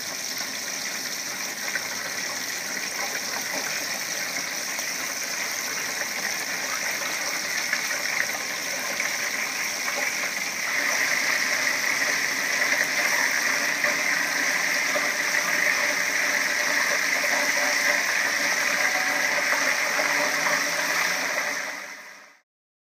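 Egg-battered cod kokotxas (cod cheeks) sizzling as they fry in oil in a steel frying pan. A steady sizzle that grows louder about ten seconds in and fades out near the end.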